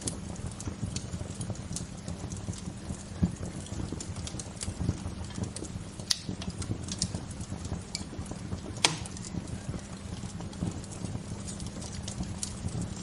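Wood fire crackling, with irregular sharp pops and snaps, the loudest about six and nine seconds in, over a steady low rushing.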